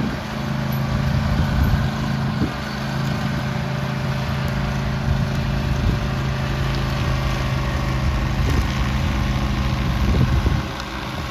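Gas snowblower engine running steadily while clearing snow, with a few faint knocks. Its level drops shortly before the end.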